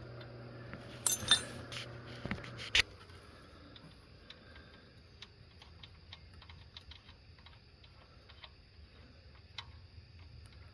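Sharp metallic clicks and clinks of a 15mm wrench working a car's oil drain plug loose, loudest in the first three seconds, followed by a scatter of faint irregular ticks.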